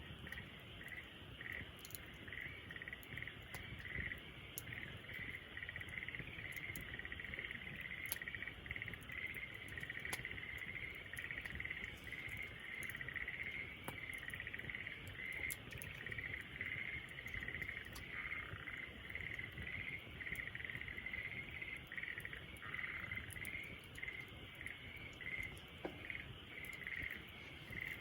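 Campfire crackling with scattered sharp pops, under a steady chorus of rapid, evenly pitched chirping calls from frogs or insects.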